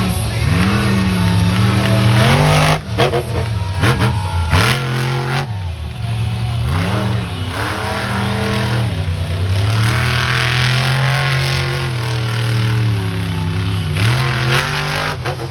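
Monster truck engine revving hard, its pitch climbing and dropping again and again as the throttle is worked, with a sharp dip about three seconds in.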